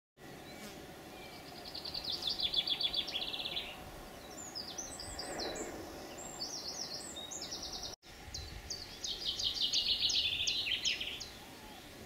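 Songbirds singing: a fast trilled phrase about two seconds in, a run of varied high chirps, then another trilled phrase after a brief drop-out, over a low steady outdoor background noise.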